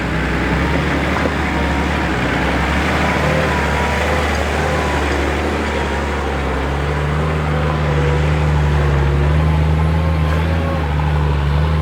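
A 4x4 off-road vehicle's engine running steadily as it drives, with a low, even hum; the engine note firms up a little about halfway through.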